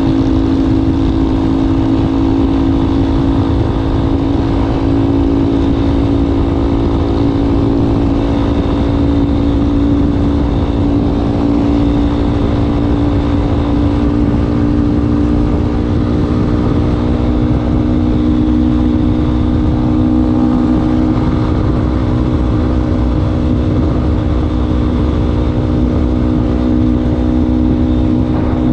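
Yamaha Ténéré 250's single-cylinder four-stroke engine running through a Wacs aftermarket exhaust tip, held at a steady engine speed with only slight drift in pitch, over a low rumble.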